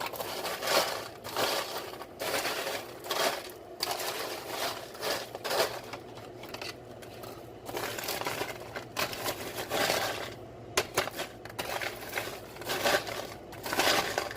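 Freshly oven-baked popcorn being stirred and moved around, a series of dry crunching rustles about a second apart. The crisp crunch is the sign that the batch has baked long enough to be crunchy.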